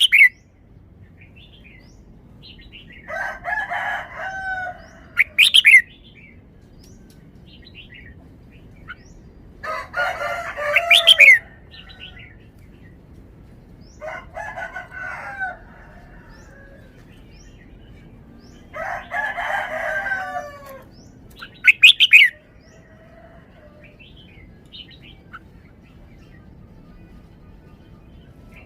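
Red-whiskered bulbul singing: four short bursts of warbling, whistled song a few seconds apart, several of them ending in sharp, loud high notes.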